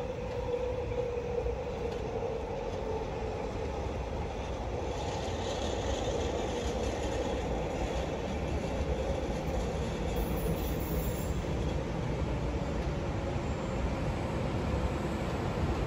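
Vancouver SkyTrain metro train approaching and pulling into an elevated station: a steady rail rumble that grows gradually louder. A hum is present in the first couple of seconds, and a brighter hiss comes in about five seconds in.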